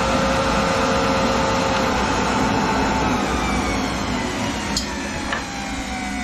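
Grizzly G0815 planer with a Shelix helical cutter head and its dust-collection vacuum running with a steady whine. From about halfway the whine slowly falls in pitch and gets a little quieter as the motors slow down. Two short clicks come near the end.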